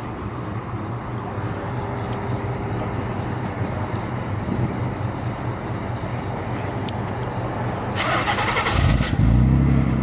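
Car engines running in a parking lot as cars leave. Near the end there is a loud hiss, and then one engine gets louder and rises in pitch.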